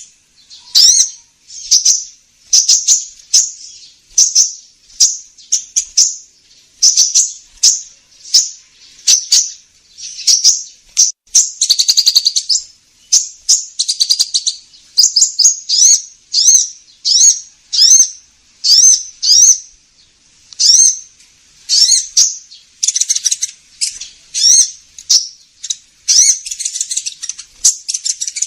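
Olive-backed sunbird ('kolibri ninja') calls played as a lure recording: short, high chirps with quick pitch sweeps, repeated about once a second.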